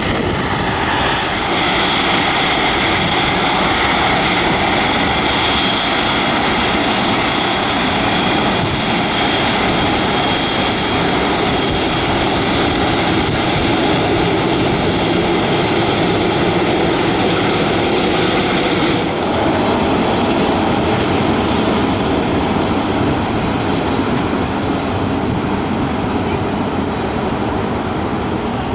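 Jet airliner's turbofan engines running loud and steady, with a high whine over the roar that fades away in the second half.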